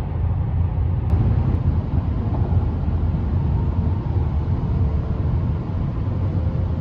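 Steady low road rumble heard inside a moving car's cabin.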